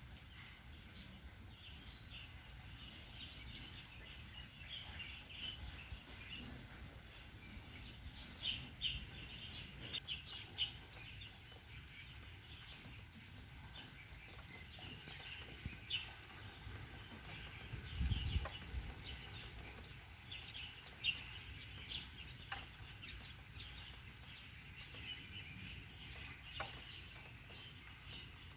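Birds calling, short chirps repeated on and off over a steady background hiss, with a low thump about eighteen seconds in.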